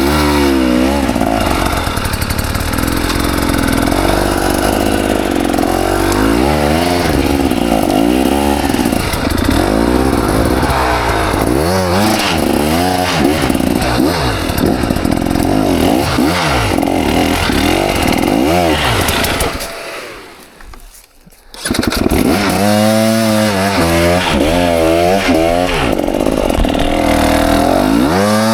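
KTM 300 XC two-stroke dirt bike engine revving up and down over and over under the rider's throttle. About twenty seconds in it dies away for a moment, then picks up again.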